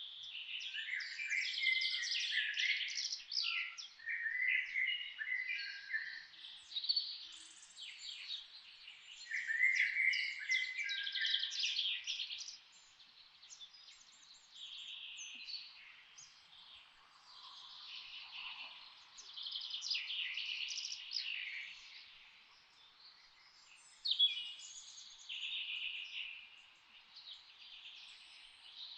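A chorus of several songbirds singing and chirping in overlapping high phrases, in bursts with a few short lulls.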